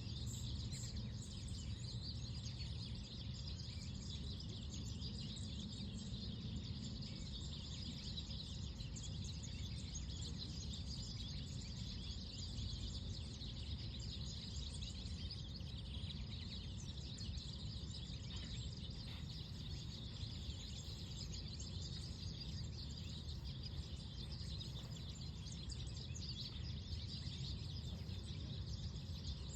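Park ambience: many small birds chirping and twittering over a steady low rumble.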